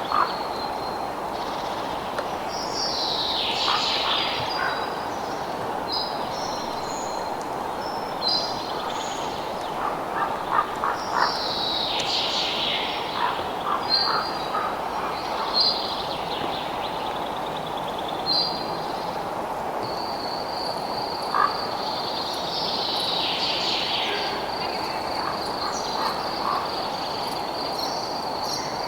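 Night-time nature ambience: a steady background hiss with repeated bird calls, some sweeping downward and others short high chirps. From about twenty seconds in, a high insect trill sounds steadily.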